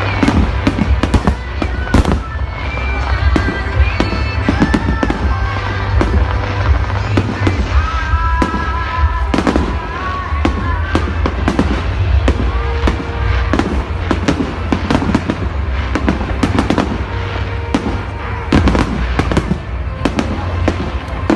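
Fireworks going off continuously, a rapid run of bangs and crackles, several each second, over a steady low rumble.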